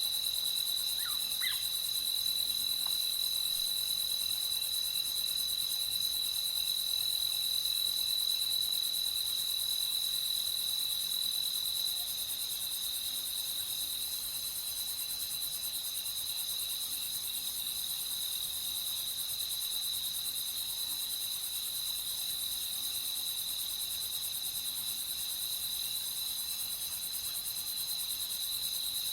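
Crickets chirping in a steady, continuous chorus. A couple of faint short calls sound about a second in.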